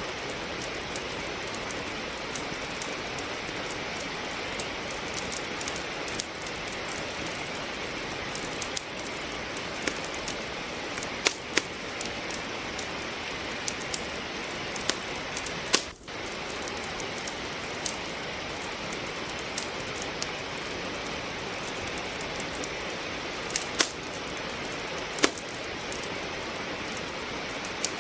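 Steady hiss of falling rain with a wood fire crackling in a fireplace, sharp pops scattered irregularly through it, several louder ones in the second half. The sound drops out for a moment about halfway through.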